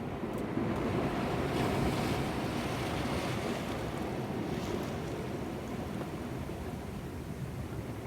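Sea surf washing against shoreline rocks, one wave surging up about a second in and then easing off, with wind buffeting the microphone.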